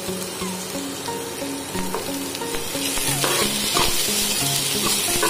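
Sliced onions with chopped garlic and ginger sizzling in hot oil in a nonstick pan, stirred with a steel spoon that scrapes now and then. The sizzle gets louder about three seconds in.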